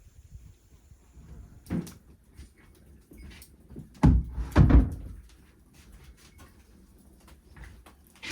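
A sharp knock, then two heavy thumps about half a second apart, and a light click near the end.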